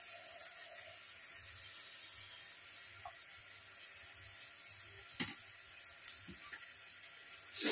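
Onions, tomatoes and ginger-garlic paste frying in oil in a non-stick kadai on medium flame: a faint, steady sizzle, with a couple of light clicks about five and six seconds in.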